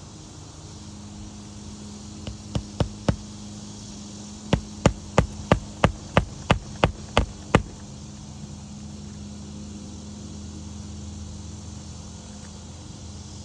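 Hammer striking on a shingle roof: four taps, then after a short pause about ten regular blows, about three a second, like a nail being driven.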